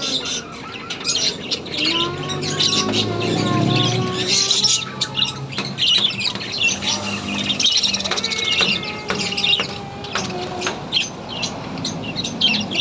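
Birds chirping and tweeting in rapid, overlapping calls, with lower sliding whistled notes underneath.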